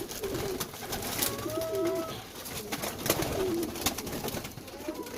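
Domestic pigeons cooing, several low warbling coos one after another, with scattered sharp clicks and taps among them.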